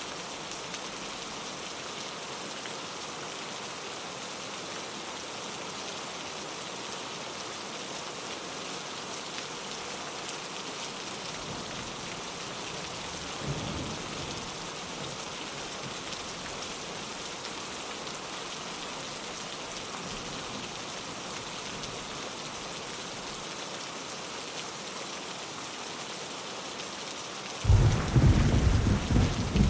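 Steady rain falling on a window, an even hiss throughout. Thunder rumbles faintly about halfway through, and a loud peal of thunder breaks in suddenly near the end.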